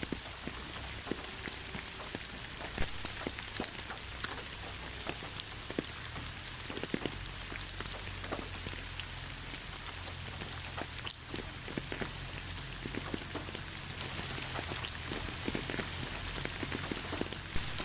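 Steady rain falling, with a constant hiss and many scattered individual drops pattering close by.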